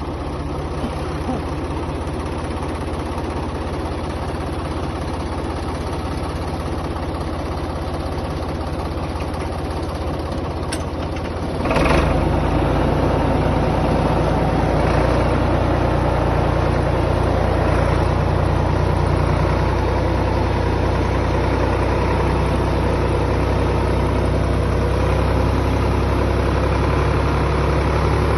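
Carraro tractor's diesel engine running steadily; about twelve seconds in it gets suddenly louder and stays at the higher level, as if revved up or put under load.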